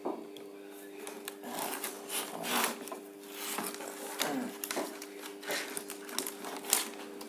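Irregular scrapes and clicks of wires and tools being handled, over a steady low electrical hum; a sharper click comes near the end.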